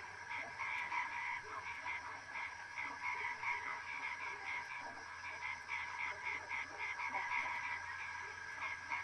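A chorus of frogs calling: many short notes repeated rapidly and overlapping, over a steady tone.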